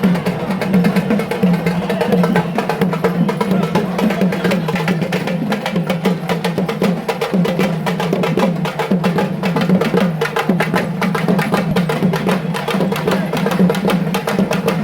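Fast, continuous drumming of a temple procession, dense rapid strikes without a break, over a steady droning tone.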